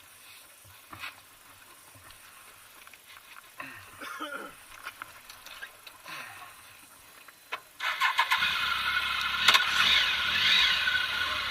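A few faint clicks and handling noises, then about eight seconds in a motorcycle engine is started and keeps running.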